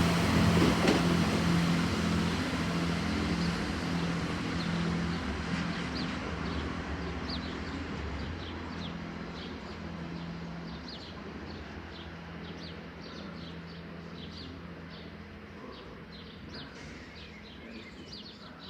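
Diesel train engine running with a steady hum, fading steadily as the train moves off into the distance. Birds chirp throughout, growing plainer as the engine dies away.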